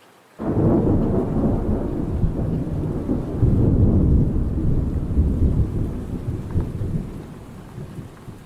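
Thunder: a low rumble starts suddenly about half a second in, rolls on with a second surge a few seconds later, and fades away near the end, over steady rain.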